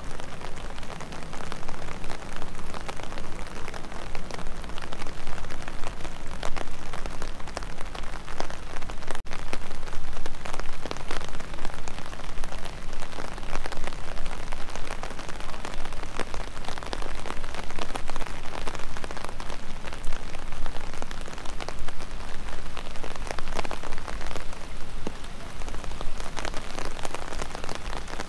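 Steady rain: an even hiss of falling rain with many close, sharp raindrop hits.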